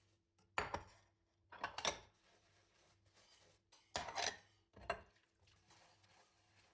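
Dishes and cutlery clattering as they are handled, in four short bursts of clinks and knocks.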